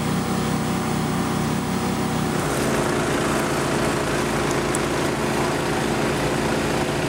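An engine running steadily, its note changing about two and a half seconds in.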